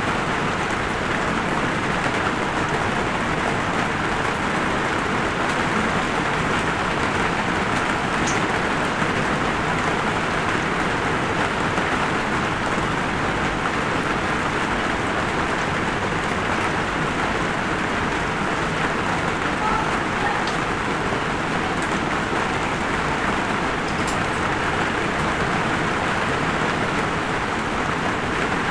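Light rain falling steadily, an even hiss with a few faint single drops ticking.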